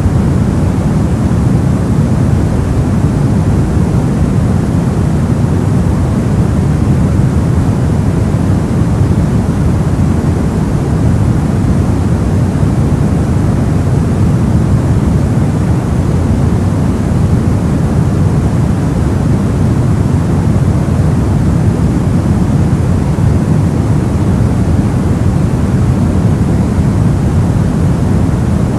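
Steady soft white noise for sleep, a smooth hiss weighted toward a low, muffled rumble, unchanging throughout.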